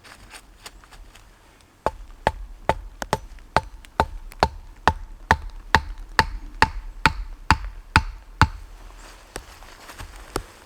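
A steady series of hard strikes on wood, about two or three a second, each with a short ringing knock. They begin about two seconds in and stop after about six seconds.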